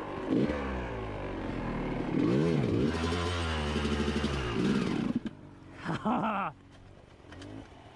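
Motorcycle engine revving repeatedly, its pitch rising and falling several times. A sharper, higher rev comes about six seconds in, and after it the engine sound drops much lower.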